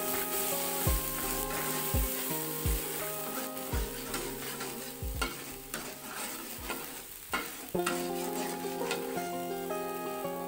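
Ground spice paste sizzling in hot oil in a wok while a metal spatula stirs and scrapes it, with scattered short clicks and knocks of the spatula against the pan. Soft background music plays underneath.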